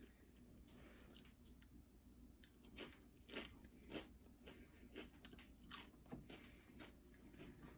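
Faint close-up chewing of crunchy Doritos nachos, with short crunches coming a few times a second from about three seconds in.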